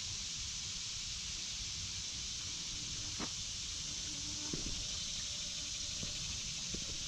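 Woodland ambience on a walk: a steady high hiss throughout, with a few soft footstep crunches or twig ticks on the trail.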